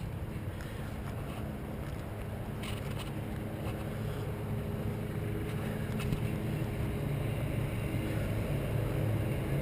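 A motor vehicle engine running with a steady low hum, slowly growing louder.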